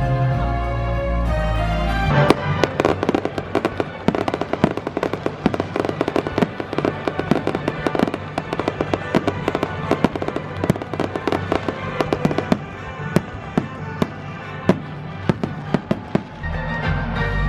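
Aerial fireworks bursting in a dense barrage of rapid pops and crackles over the show's music. The barrage starts about two seconds in and dies away near the end, when the music comes back to the fore.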